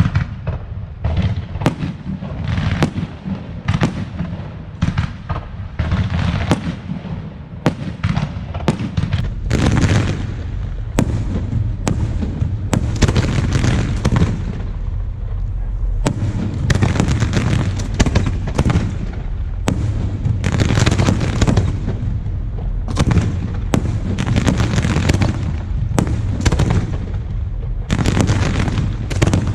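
Fireworks display: a rapid, continuous barrage of shell bursts and bangs over a steady rumble of booms. The bursts come thicker and louder from about ten seconds in.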